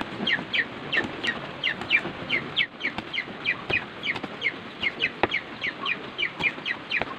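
A bird chirping in short, falling peeps about three times a second, the loudest sound throughout. Under it, a kitchen knife slices rolled bago leaves on a wooden chopping board, with a few sharp knocks of the blade on the board.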